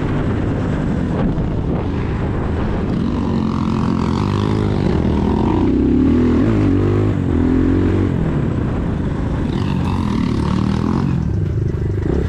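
Motorcycle engine running under way, its revs rising and falling through gear changes, over steady wind and road noise.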